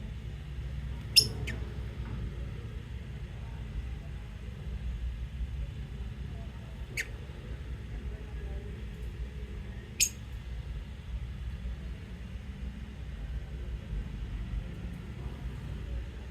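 Lovebirds giving short, shrill chirps: two close together about a second in, one near the middle and a loud one about ten seconds in, over a steady low rumble.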